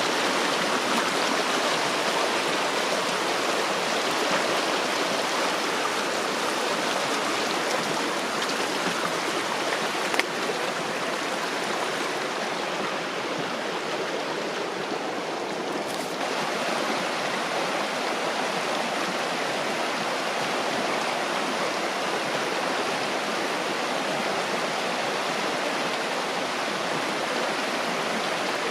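Steady rushing water of a creek, an even unbroken wash of noise, with one small click about ten seconds in.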